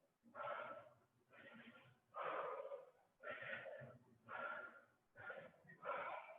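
A person breathing hard during exercise: heavy, rhythmic breaths, about one a second, with short silent gaps between them.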